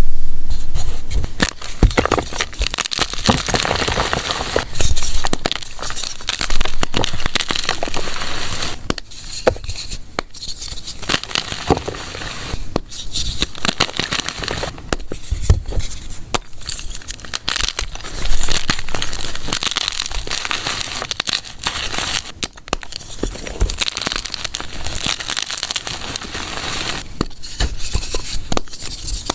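Soft gym chalk being crushed and crumbled, a dense crumbly crackle with many small sharp crunches scattered through it.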